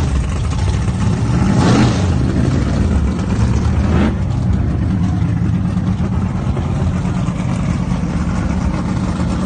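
Drag-race car's V8-style engine running loud and steady at the starting line, with two brief sharp spikes of noise about two and four seconds in. The car is an early Ford Mustang coupe.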